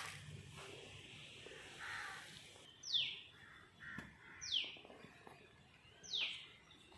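Outdoor birdsong: a bird gives a short high call that falls steeply in pitch, three times about a second and a half apart, from about three seconds in. Crows caw faintly in between.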